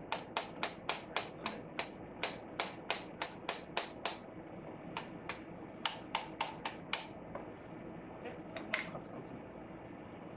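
A quick run of sharp clicks or taps, about three a second for roughly four seconds, then a handful of scattered ones.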